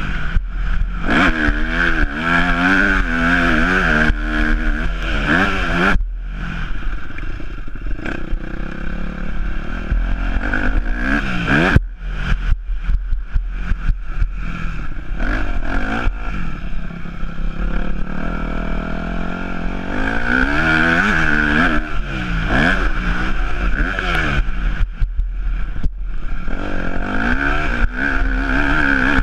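Yamaha YZ250F's single-cylinder four-stroke engine being ridden hard, its revs rising and falling over and over, with the throttle snapping shut about six and twelve seconds in. Scattered knocks and clatter run under the engine.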